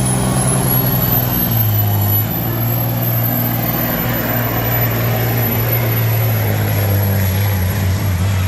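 Caterpillar V8 diesel of a 1977 Ford pulling truck running loud and steady, with a thin high whistle that climbs over the first second or so and then holds.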